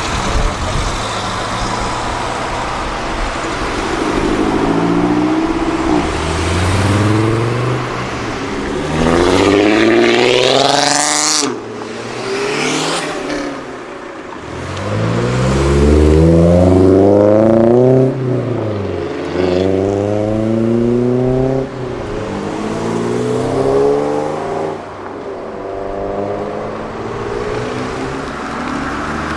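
Cars accelerating hard one after another, their engines and exhausts rising in pitch through the gears with a drop at each upshift.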